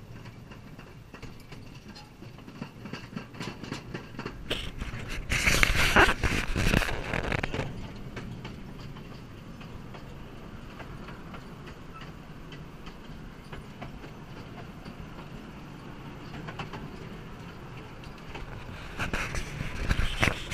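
A narrow-gauge train's passenger car rolling along the track, heard from on board: a steady rumble with light clicking from the wheels on the rails. About five seconds in it swells for a couple of seconds into a louder, harsher clatter, and it rises again near the end.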